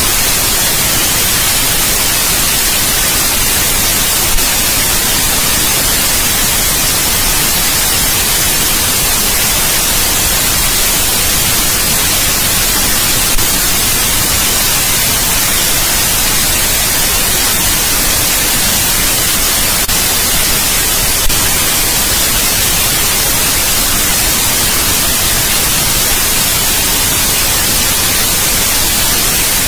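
Steady white noise: an even, unbroken hiss across the whole range, with three brief clicks.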